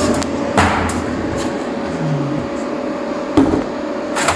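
Steady hum of running machinery with a single constant tone, broken by a few sharp knocks, about half a second in and again past three seconds in.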